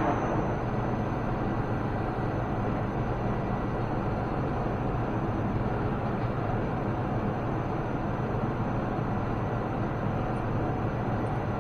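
Machine running steadily: a constant electric-motor hum with a noisy mechanical wash, consistent with the Cincinnati mill's feed motor running.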